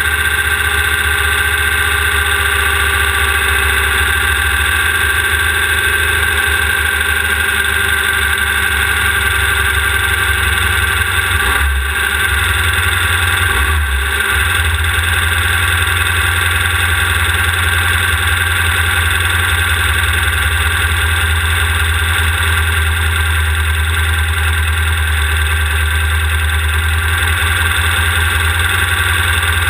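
Off-road race car's engine running steadily under load, heard close up from a rear-mounted onboard camera, with two brief dips near the middle.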